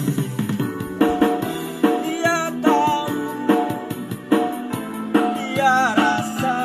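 Song with a steady beat and a singing voice that slides and wavers in pitch.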